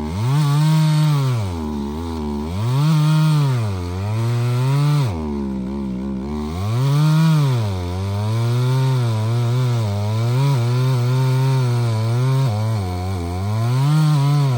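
Two-stroke chainsaw cutting through a large tree trunk. The engine note sags and recovers several times as the chain bites, then holds a fairly steady high pitch through the second half.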